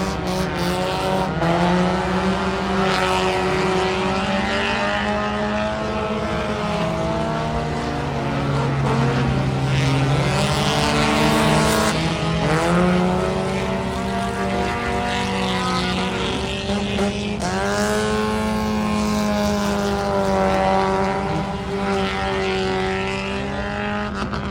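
Race car engines running laps on a dirt oval during hot laps, the revs climbing and dropping again and again as the cars go around.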